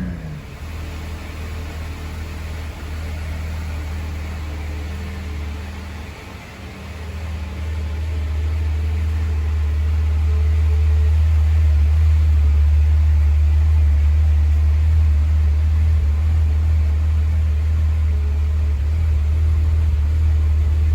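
VW Corrado VR6 engine running through a Jetex 2.5-inch stainless cat-back exhaust: a steady low drone. It dips about six seconds in, then grows louder and holds steady.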